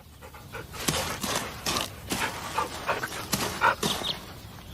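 A dog panting: a quick, irregular run of short breathy puffs.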